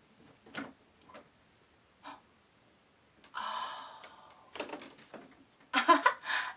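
A few soft clicks as a box is opened, then a breathy gasp of surprise and a short excited voice sound near the end.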